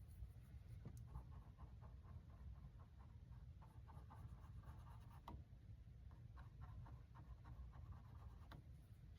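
Faint scratching of a paintbrush on canvas, short irregular strokes of acrylic paint, over a low steady hum.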